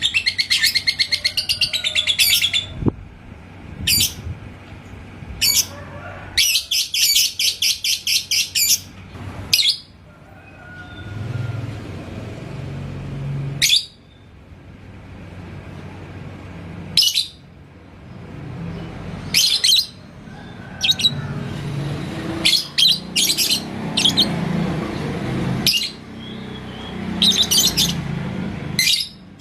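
Lovebird singing: two fast rattling trills of the ngekek song, one at the start and one about seven seconds in, with single sharp chirps scattered through the rest.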